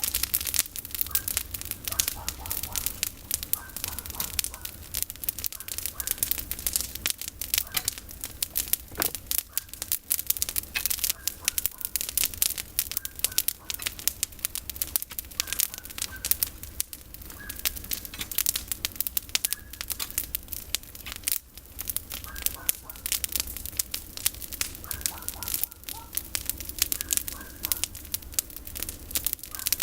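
Campfire of pruned olive branches crackling, with a dense, continuous stream of sharp pops and snaps.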